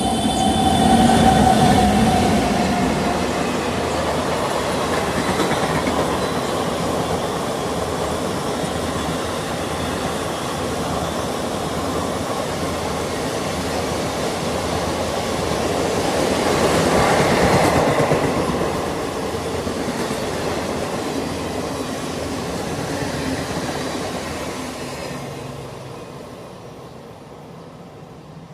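A train passing by on the track, its wheels clattering over the rails. It is loudest about two seconds in and again around seventeen seconds, then fades away near the end.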